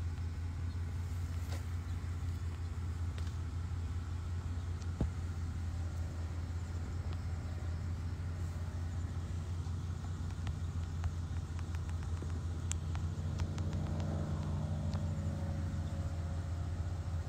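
Ferrari Purosangue's V12 engine idling, a steady low rumble that grows a little fuller near the end.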